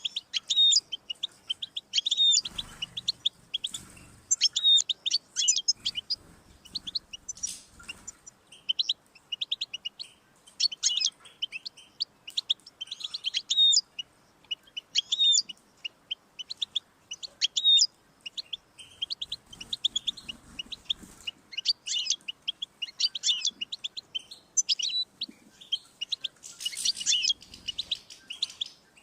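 European goldfinch singing: a fast, continuous stream of high chirps and trills.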